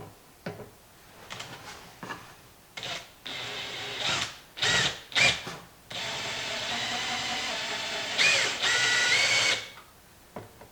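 Power drill drilling out rivets: light handling clicks, then a few short bursts of the drill, then a longer steady run whose pitch steps up near the end before it stops.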